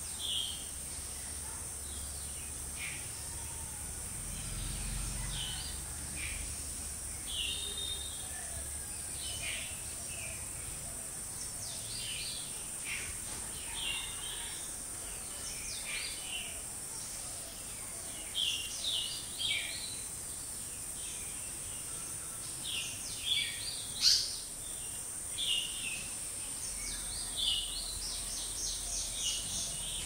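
Small birds chirping in short, high calls scattered throughout, over a steady high-pitched hiss.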